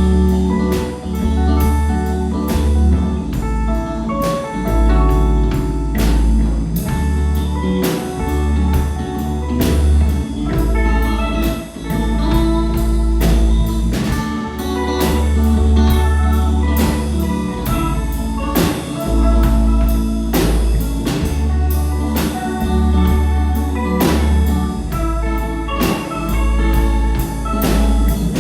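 A band playing an instrumental passage: a drum kit keeps a steady beat under a heavy bass line and sustained chords.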